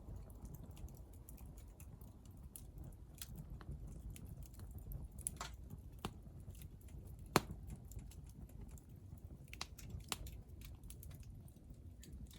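Hardwood fire in a Picogrill crackling: irregular sharp pops and snaps over a low steady rumble, the loudest pop about seven seconds in.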